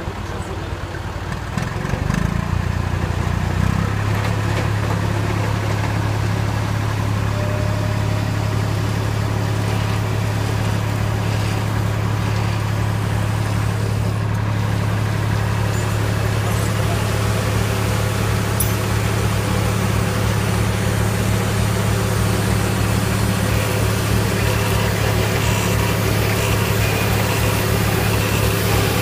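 Tractor engine running the pneumatic seed planter. About two seconds in it speeds up, then holds a steady, even hum.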